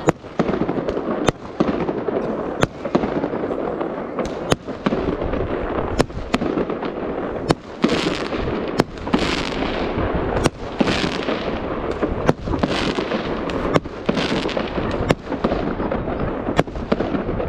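Fireworks going off in a continuous barrage: sharp bangs about once a second over a steady rumble. Several hissing, crackling bursts come in the middle.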